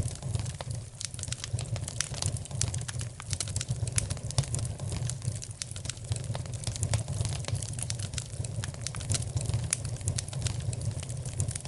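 Wood fire crackling in a fireplace: a steady stream of irregular small pops and snaps over a low, even rumble of the flames.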